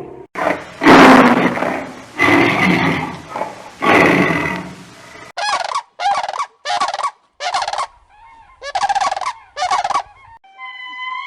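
Animal calls from a sound compilation. Three loud, rough calls come first, then six short, rapid warbling calls in quick succession through the second half.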